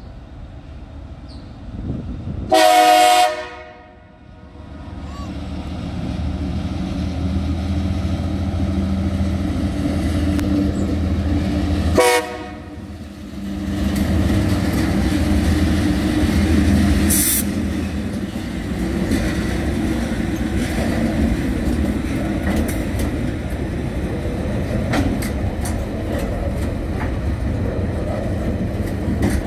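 Two Tasrail TR class diesel-electric locomotives with a container freight train: a loud horn blast about three seconds in and a shorter toot at about twelve seconds, then the locomotives' engines drone past. After them comes the steady rumble and clicking of container wagons rolling over the rails.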